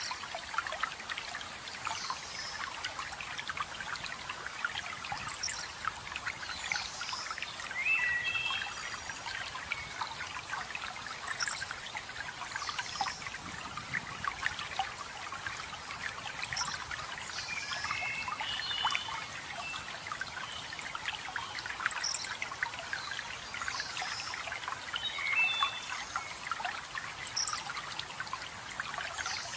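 Running water trickling and splashing steadily, with songbirds calling over it: a short high call repeating about every five or six seconds, and a lower warbled phrase three times.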